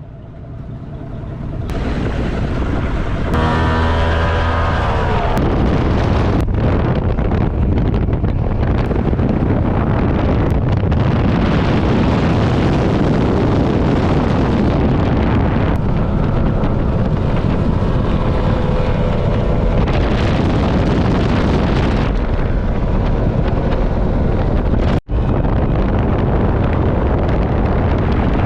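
Performance speedboat engines running at speed on a river, under heavy wind rush on the microphone and water noise. An engine note stands out and glides slightly down about four seconds in, and another comes through later. The sound cuts out for an instant near the end.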